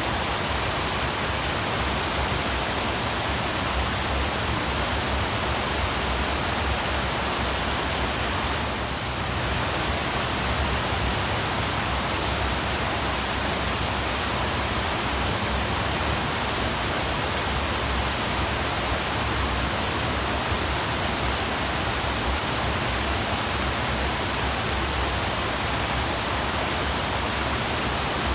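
Waterfall: a steady, even rush of falling water with no breaks, dipping only slightly for a moment about nine seconds in.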